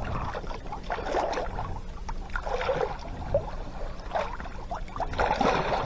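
Water splashing and gurgling along a sailboat's hull, over the low steady hum of its engine.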